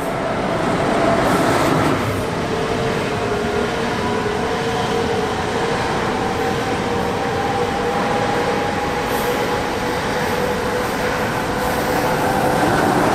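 Train running past close by: a steady rush of wheels on rails with a whine in several steady tones that slowly rise in pitch, loudest about one to two seconds in.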